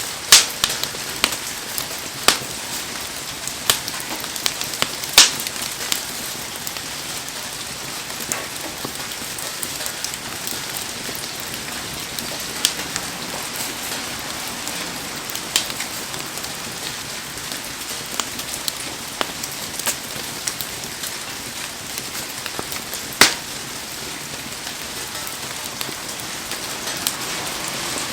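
Heavy rain falling in a steady hiss, broken by sharp pops and ticks every few seconds, the loudest about 5 s and 23 s in.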